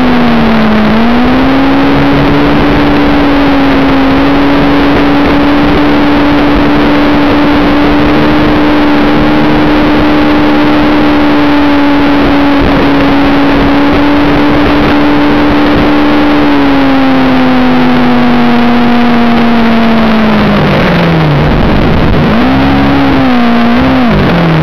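Motorcycle engine running at a steady cruising speed over a loud rush of wind on the camera microphone. Its note dips briefly near the start, falls away as it slows about two-thirds of the way in, then revs up and drops again near the end.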